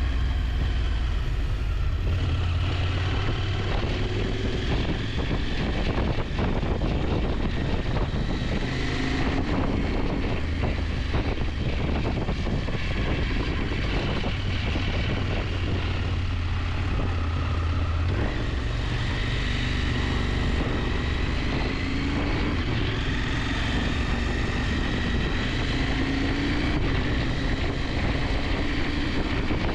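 KTM 890 Adventure's parallel-twin engine running under way, its note slowly rising and falling with the throttle, with wind rushing over the rider.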